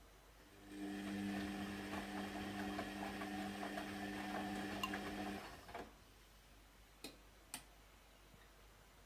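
Atlant washing machine giving off a steady mechanical hum with light ticking, which starts just under a second in and stops about five seconds later. Two sharp clicks follow, about half a second apart.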